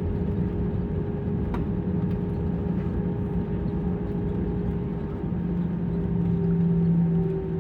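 Steady drone of airport machinery or a running engine, with a low hum that steps up in pitch and gets louder about five seconds in.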